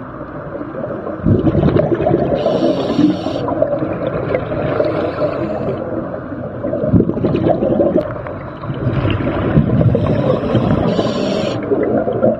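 Scuba diver's regulator breathing underwater: two breathing cycles, each a long rumbling swell of exhaled bubbles with a short high hiss from the regulator, about three seconds in and again near eleven seconds.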